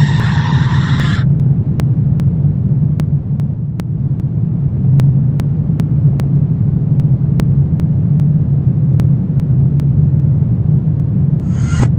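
Low, steady rumbling drone of a dark horror ambience, with faint scattered clicks. A higher, wavering layer cuts off about a second in, and a brief hissing sound comes near the end.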